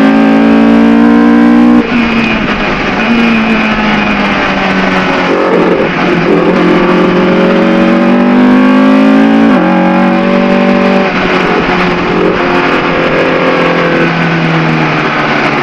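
Ford Cortina race car's engine at full throttle, its pitch climbing and then dropping at each gear change, with a clear shift just before two seconds in and another a little past halfway.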